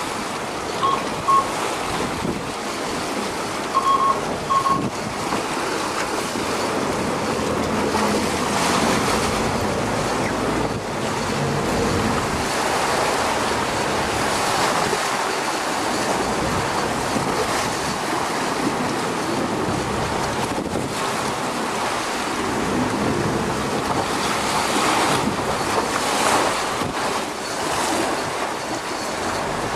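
Sea and wind rushing past a boat on the open ocean, with wind buffeting the microphone. There are two pairs of short, high beeps within the first five seconds.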